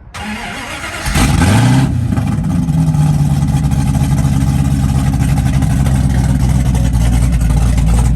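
A 1937 car's engine cold-starting: the starter cranks for about a second, then the engine catches with a brief rev and settles into a loud, steady idle. The owner says the exhaust has no mufflers.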